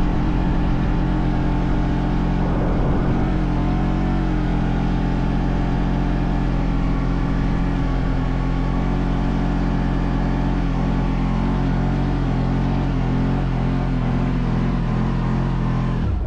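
CFMoto CForce 1000 ATV's V-twin engine running at steady revs under load, its pitch wavering slightly.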